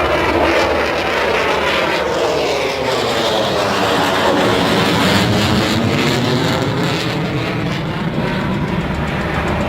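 F-22 Raptor's twin F119 turbofan jet engines, loud and steady throughout, with a sweeping, phasing tone through the middle as the jet passes.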